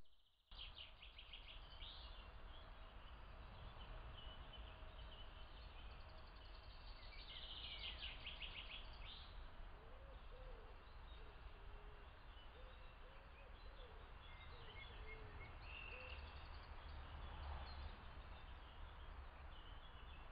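Faint songbirds singing in the distance: quick high trills about a second in and again around the eighth second, with scattered short chirps between. A steady low rumble and hiss from the trail camera's microphone lies underneath.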